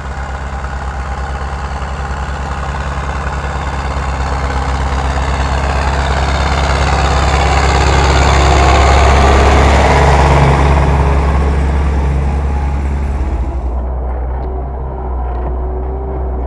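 MTZ tractor's four-cylinder diesel engine running steadily while pulling a plough, growing louder to a peak about two-thirds of the way through and then easing off. Near the end the sound abruptly turns duller.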